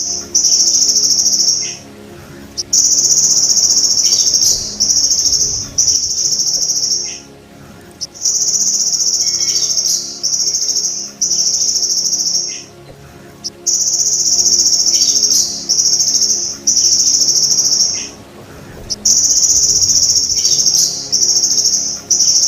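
Belalang emas (golden grasshopper) insect singing a high, shrill buzzing trill in repeated bursts of about one to two seconds, with short breaks between them. A few faint bird chirps fall in the gaps.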